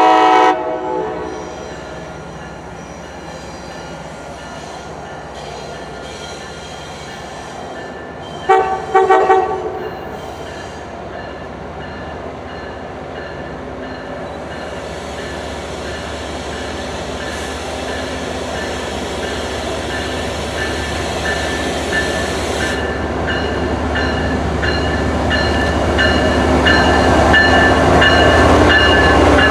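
MBTA commuter train with an HSP46 diesel locomotive blowing its horn: one loud blast at the start and a few short blasts about nine seconds in. Then the train's engine and wheel noise grows steadily louder as it approaches.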